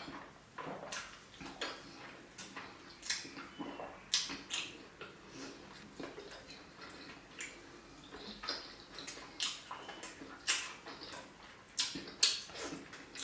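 Close-miked wet eating sounds: irregular mouth smacks, squelchy chewing and slurps of fish pepper soup with soft pounded yam.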